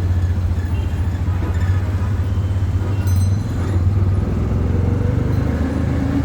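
Steady low rumble of a moving train, with a brief high metallic ring about three seconds in.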